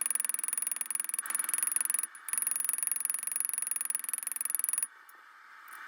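Hammer blows setting the rivet of a pair of blacksmith's tongs, sped up six times so the strikes run together into a dense, rapid clatter over a thin steady high whine. It breaks off briefly about two seconds in and drops away near the end.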